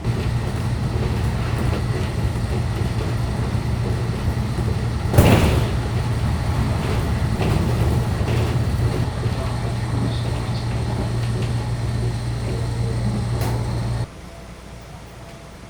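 Steady low drone of a local electric train heard from inside the car, with one loud clunk about five seconds in and a lighter knock shortly before the drone cuts off suddenly near the end.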